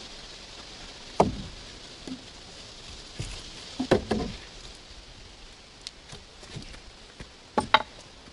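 A handful of sharp knocks: one about a second in, a quick cluster around four seconds, and two close together near the end.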